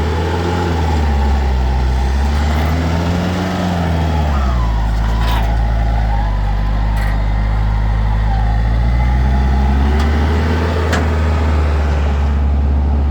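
Vehicle engine running at low revs, its pitch rising and falling a few times in the first four seconds and then holding steady. A few sharp clicks sound over it.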